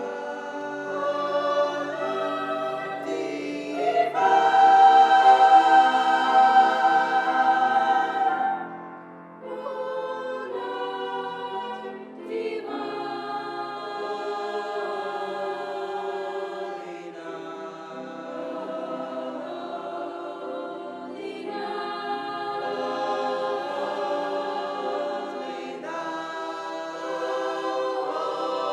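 A school choir singing sustained chords with no accompaniment, swelling loudest about four seconds in and easing off briefly after about nine seconds.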